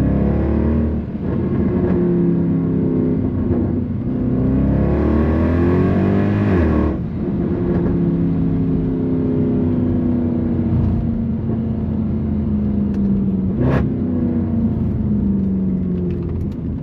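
Straight-piped M156 naturally aspirated V8 of a 2009 Mercedes C63 AMG, its revs rising and falling, then pulling hard about 4 to 7 seconds in before cutting off abruptly. The engine note then sinks slowly as the car eases off, with a single sharp pop from the exhaust about two-thirds of the way through.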